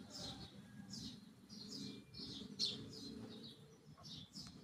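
Faint small birds chirping: quick, high chirps that drop in pitch, two or three a second, over a low background rumble.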